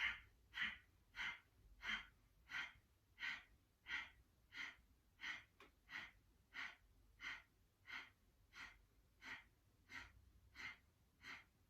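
Kapalbhati breathing: a person's short, forceful exhalations through the nose, each a brief sharp hiss, repeated evenly at about three every two seconds, with quiet passive inhalations between them.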